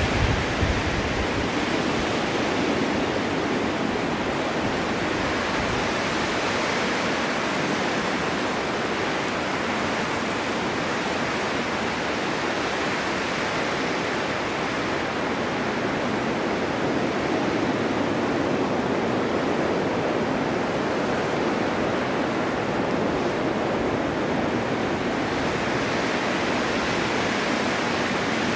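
Snowstorm wind blowing steadily, a constant rushing that slowly rises and eases.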